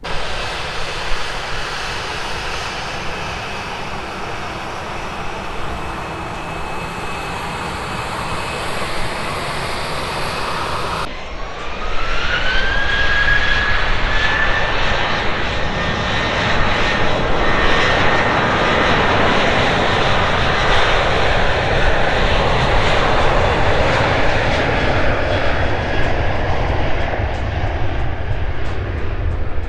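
Jet aircraft engines: a continuous loud rush of engine noise. About eleven seconds in the sound changes abruptly, and a high whine rises in pitch over a couple of seconds and then holds steady under the rush.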